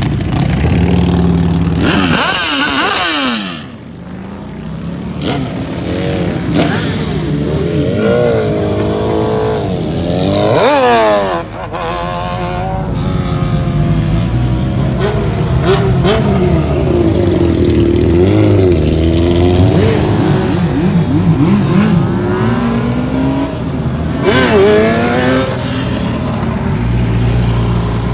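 Several motorcycle engines revving and riding past, their pitch climbing and dropping again and again, with a sharp rise and fall about ten seconds in and another near the end.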